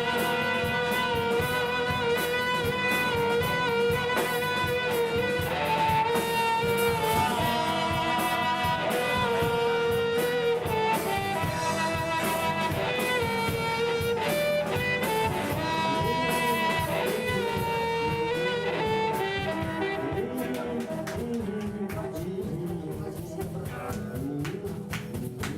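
Live band playing an instrumental passage, a held melody line over the accompaniment. It thins out and gets quieter over the last few seconds.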